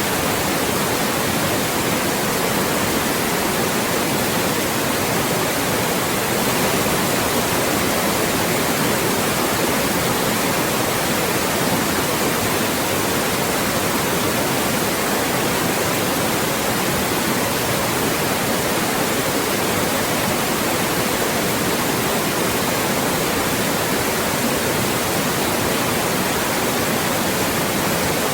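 Loud, steady synthetic white noise, an even hiss across the whole range with no change.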